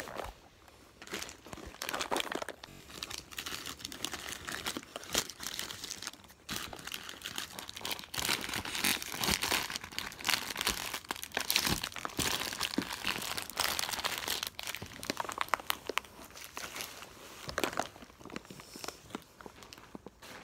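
Plastic packaging being crinkled and rustled by hand, with dense irregular crackles that are busiest in the middle and thin out near the end.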